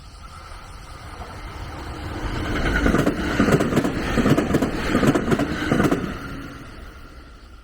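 A train passing by, building up, then fading over a few seconds, with a run of quick clicks at its loudest.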